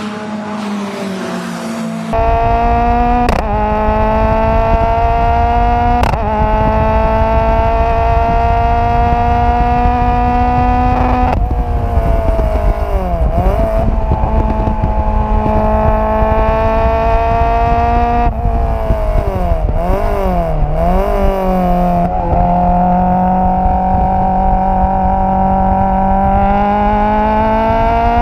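Renault Clio Cup race car's four-cylinder engine heard right at the exhaust, pulling hard under full throttle with quick upshifts that briefly drop the pitch. Twice it brakes with a series of downshift blips before rising again on the next acceleration.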